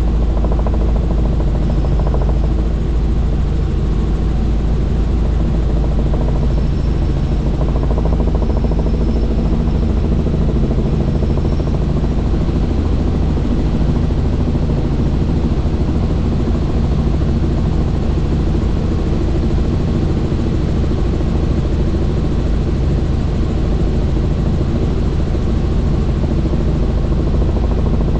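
Helicopter in flight: steady, loud rotor and engine noise with a fast, even beat of the blades.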